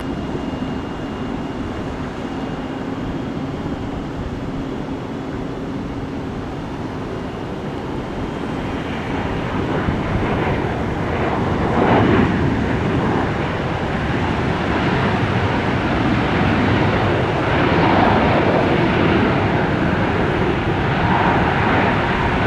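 Jet airliner engines: a steady rush that swells from about nine seconds in as the aircraft passes close by.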